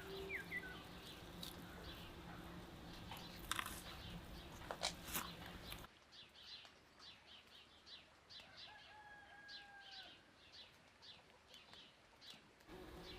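Faint birds chirping: short high calls repeating two or three times a second, with one longer held call near the middle. A few soft knocks come earlier.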